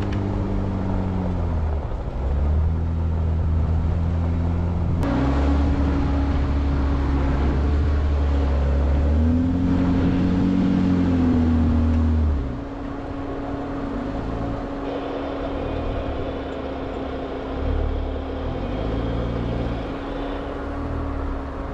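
Jeep Wrangler engine driving up a dirt hill road, its pitch shifting as the throttle and gears change. About twelve seconds in it drops to a quieter, steady run.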